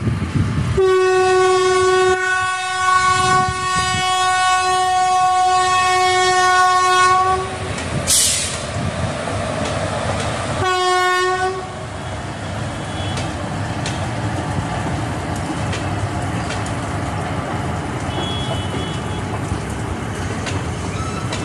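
Electric locomotive's horn sounding one long blast of about seven seconds, then a short second blast, as the train departs. After that comes the steady rumble of the coaches rolling past on the track.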